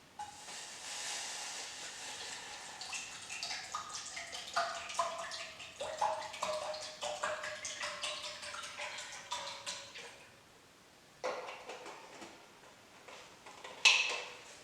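Water running and splashing into a container for about ten seconds, then stopping; a knock follows, and a sharp clink near the end is the loudest sound.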